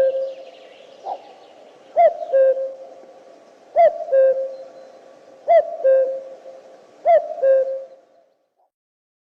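A bird's hooting call in two notes, a short higher note then a longer, lower held one. It repeats five times, about every second and a half to two seconds, and stops about eight seconds in.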